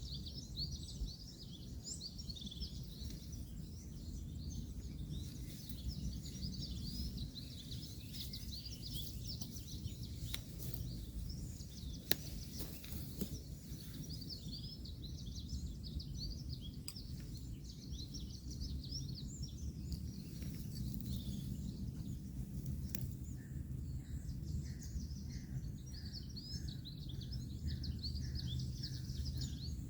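Small birds chirping in quick, overlapping bouts over a steady low rumble of distant road traffic, with a few sharp clicks, one near the middle standing out.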